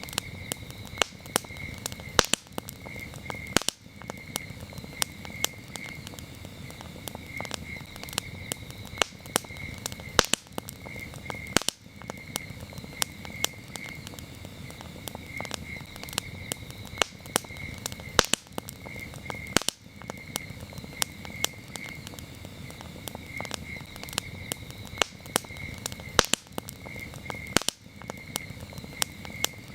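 Campfire crackling, with frequent irregular sharp pops over a low steady rush of burning wood, while crickets chirp in repeated high pulses behind it.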